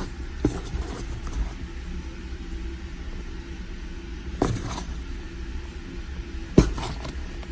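A steady low rumble with a few sharp knocks and rustles, about half a second, four and a half and six and a half seconds in: hands rummaging through the bedding of a small plastic worm bin, bumping the bin.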